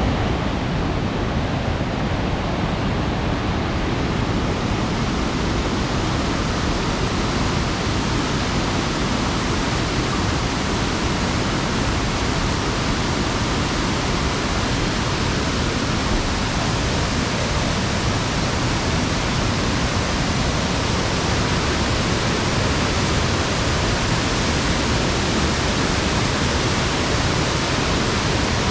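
Steady, loud rush of water from Sanjū-no-taki, a three-tiered waterfall in a mountain gorge, with no change in the falling water.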